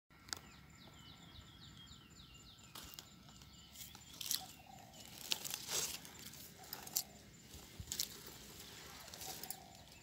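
A small bird singing a rapid run of short, falling high notes, about four a second, for the first few seconds. Then a string of irregular knocks and rustles close to the microphone.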